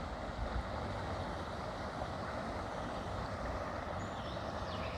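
Steady outdoor background noise, with a few faint high bird chirps near the end.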